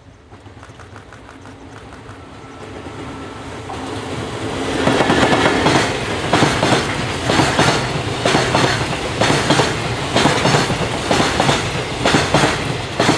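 An EF65 electric locomotive hauling a long container freight train approaches and passes close by: a rumble that grows steadily louder over the first five seconds, then a rapid, regular clickety-clack of the container wagons' wheels over the rail joints.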